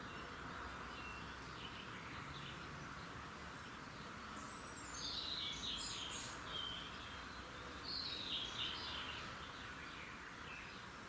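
Wild songbirds singing over a steady background hiss: a run of high, quick chirping phrases about four and a half seconds in, opening with a falling note, and another about eight seconds in.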